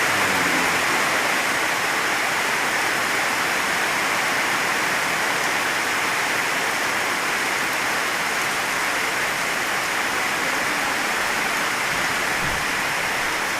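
Heavy rain falling steadily, a continuous even hiss of water.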